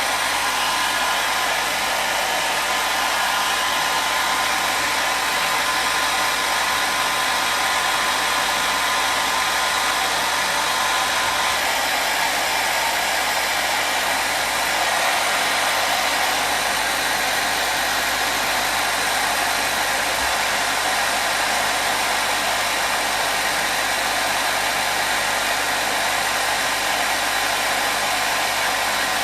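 Electric hair dryer blowing continuously at a steady speed, a constant even whoosh of airflow and motor with a faint high hum.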